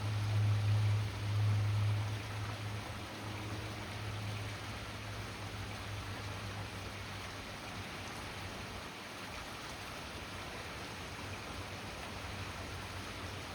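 Steady rain falling, an even hiss of drops. A low hum sounds under it at the start and fades over the first few seconds.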